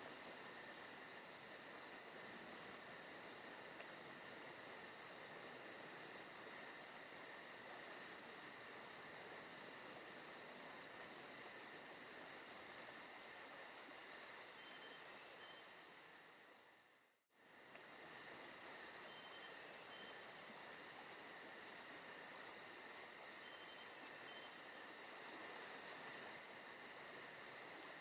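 Forest ambience of crickets and other insects chirping steadily, with a fast high trill above. A little over halfway through, the whole bed fades down to near silence for about a second, then comes straight back.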